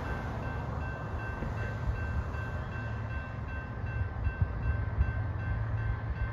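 Train running, a steady low rumble with occasional thumps, with a high tone beeping a few times a second over it.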